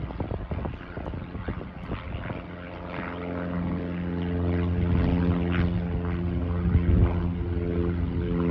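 Light propeller airplane's piston engine running steadily and growing louder as it comes closer, with irregular thumping in the first couple of seconds.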